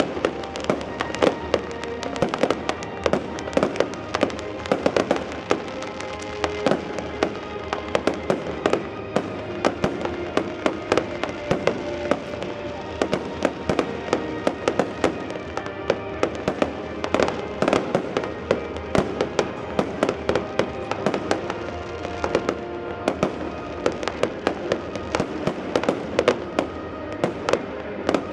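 Fireworks display: a rapid, continuous run of bangs and crackling bursts, several a second, over loud music.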